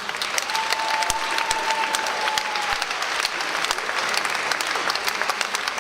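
Concert audience applauding, a dense patter of many hands clapping. A thin steady tone sounds over it for about two seconds, starting about half a second in.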